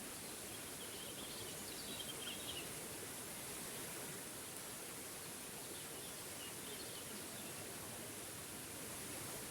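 Small forest waterfall rushing steadily, with a bird chirping faintly in two short spells, in the first few seconds and again about six seconds in.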